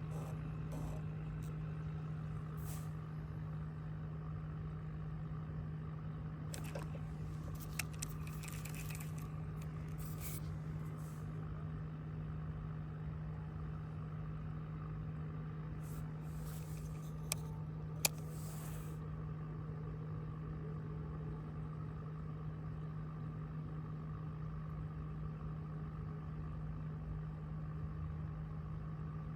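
A boat motor running steadily with a constant hum, broken by a few rustles and sharp clicks.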